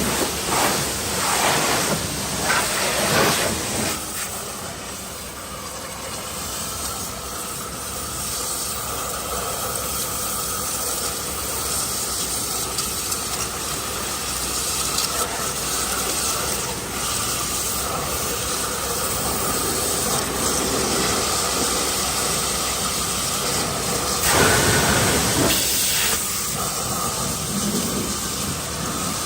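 Pressure washer spraying water with a steady hiss. The sound shifts for the first few seconds, then holds steady, with a louder surge near the end.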